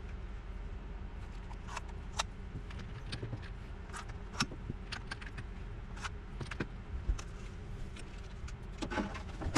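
Scattered light clicks and clinks of small hard objects being handled, over a steady low hum, with a sharper click near the end.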